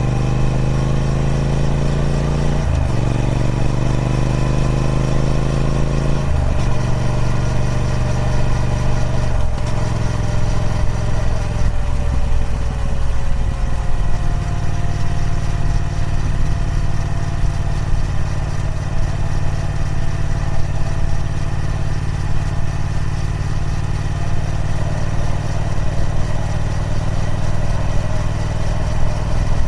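Triumph Speed Twin 1200's parallel-twin engine through its stock exhaust, pulling up through the gears with three upshifts in the first ten seconds, the note climbing after each. It then eases off slightly and holds a steady cruise.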